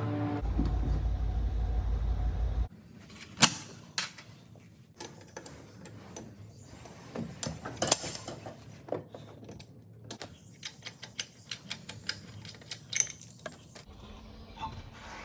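Irregular metal clinks, taps and knocks of hand tools and small metal parts being handled during the A/C clutch repair, a few of them sharp and loud.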